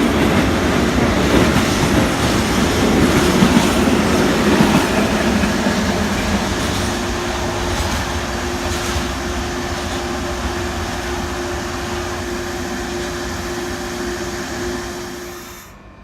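Train passing on the rails: a loud rolling rumble for the first five or six seconds, then quieter with a steady hum, cutting off suddenly near the end.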